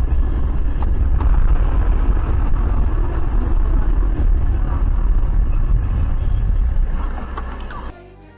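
A vehicle driving: a steady low rumble of engine and road noise with a few faint knocks. It cuts off sharply near the end.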